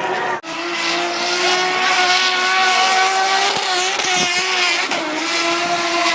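Drift car's engine held at high, steady revs while it slides, with tyres squealing. The sound drops out sharply for an instant just after the start.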